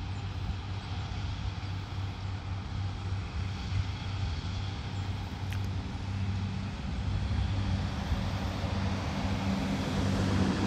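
A vehicle engine idling: a steady low hum over an even background noise, with a second, higher tone coming in about halfway through.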